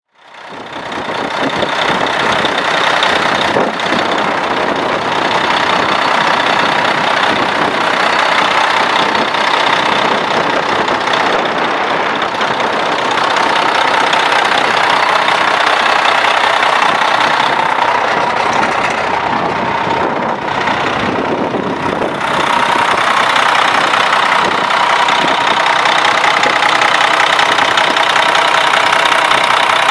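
2002 Kenworth T800 truck tractor's diesel engine running steadily, fading in at the very start.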